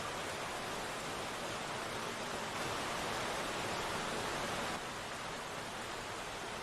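Steady rain falling, an even hiss with no separate drops standing out. It swells slightly about two and a half seconds in and drops back just before five seconds.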